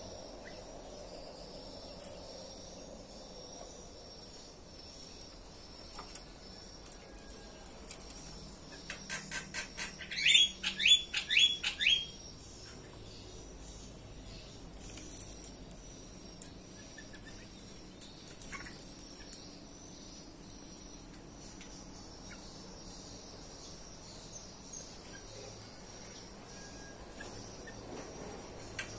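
A small bird calling: a rapid run of clicks and then a burst of sharp, steeply falling notes about nine to twelve seconds in. A steady high-pitched insect drone runs underneath.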